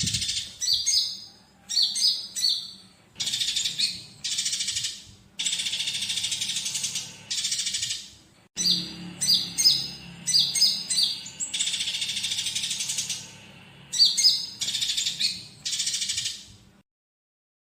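Oriental magpie-robin singing: sharp, high whistled notes alternate with dense, buzzy chattering runs of a second or two that imitate fighting sparrows. The song stops about a second before the end.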